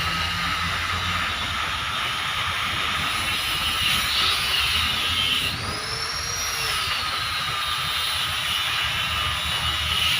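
Steady machine noise with a high whine and hiss throughout; around the middle the whine sweeps up in pitch and falls back.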